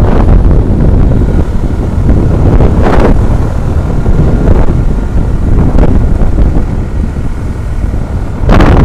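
Loud wind buffeting on the microphone of an action camera riding on a moving truck, over a steady low rumble of road and engine noise, with gusts swelling briefly a few seconds in and again near the end.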